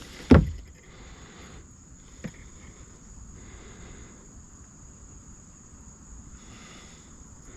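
Steady high-pitched drone of insects such as crickets, with one loud thump about a third of a second in and a small click about two seconds later, from handling in the kayak.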